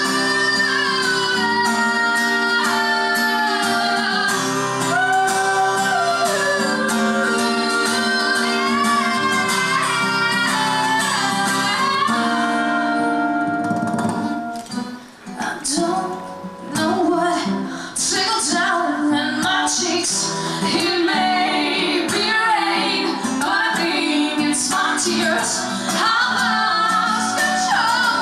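A live band song: a woman singing over guitar. About halfway through the music thins out briefly, then comes back with more rhythmic strummed guitar under the voice.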